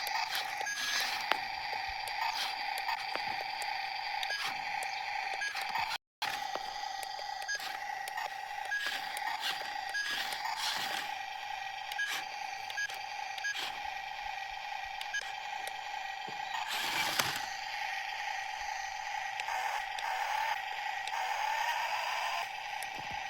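Small electric motor and gearbox of a toy RC tractor whining steadily, with scattered clicks and scrapes. The whine rises briefly in pitch near the end.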